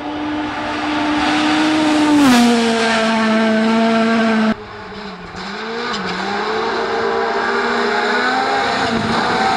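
Rally car engine at full throttle, its note dropping sharply in pitch about two seconds in. After an abrupt cut about halfway, another rally engine note wavers, then climbs steadily as it accelerates.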